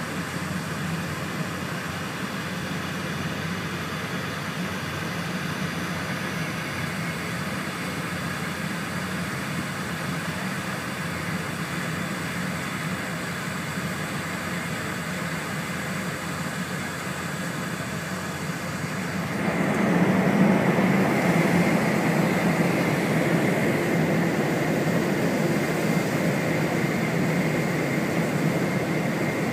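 Cabin noise of an E4-series Tohoku Shinkansen train running at speed: a steady low rumble with a rushing hiss. About two-thirds of the way through it suddenly grows louder and fuller as the train enters a tunnel.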